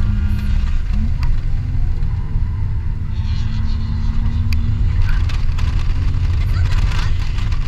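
2003 BMW 325i's 2.5-litre straight-six pulling at speed, heard inside the cabin with heavy road and wind rumble. A steady engine note holds through the middle.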